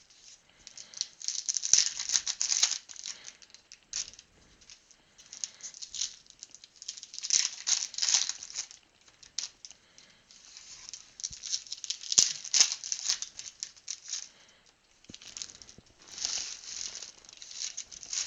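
Trading card packs and wrappers rustling and crinkling as they are handled, in several irregular bursts of about a second or two each.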